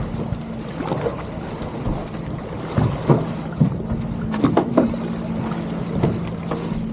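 Small sailboat underway: water and wind noise with a steady low hum, and several sharp knocks and clatters from the deck gear as the jib is trimmed.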